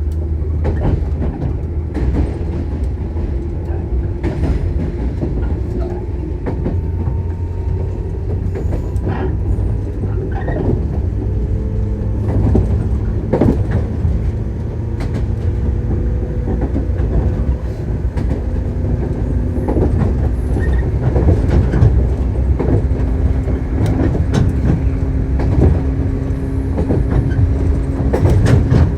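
Shinano Railway 115 series electric train running, heard inside the car: a steady low rumble and the hum of its traction motors, rising slowly in pitch, with frequent clicks and knocks from the wheels over rail joints.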